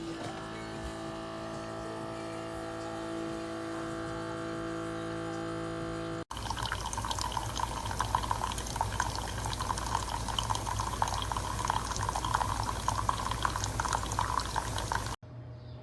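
Keurig K-Mini single-serve coffee maker brewing: a steady hum for about six seconds, then, after an abrupt cut, coffee streaming and spattering into the cup until another cut near the end.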